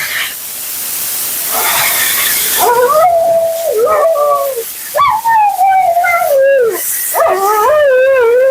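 Siberian husky howling and "talking": three long, drawn-out calls one after another from a few seconds in, each wavering in pitch, the last one wobbling up and down.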